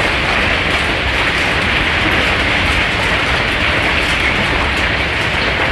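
Intense hailstorm hammering a house: a loud, steady roar of countless hailstones striking without a break.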